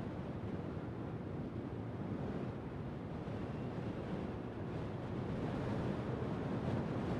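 Steady, low rushing outdoor ambience with no distinct sounds standing out.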